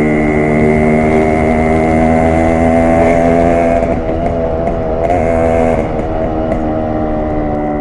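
Yamaha RX 100's air-cooled two-stroke single-cylinder engine running under way, its exhaust note held at a steady pitch that dips briefly about four seconds in and again near six seconds.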